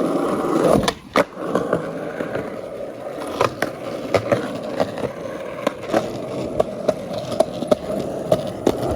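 Skateboard wheels rolling over pavement with a steady rumble. There is a sharp knock about a second in, then a run of sharp clicks a few times a second as the wheels cross the surface.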